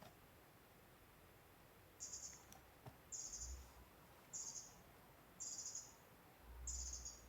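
A faint, high, buzzy call repeated about once a second, each lasting about half a second, over a near-silent forest background: a small bird calling.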